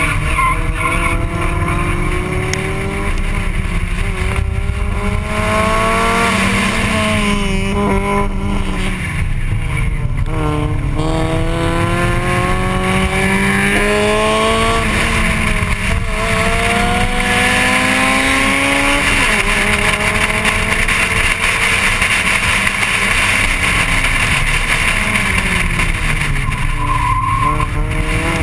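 A racing VW Golf Mk1's 1.8-litre four-cylinder engine heard on board under hard acceleration. Its pitch climbs and drops again and again as it pulls through the gears and slows for corners, over a steady rushing noise.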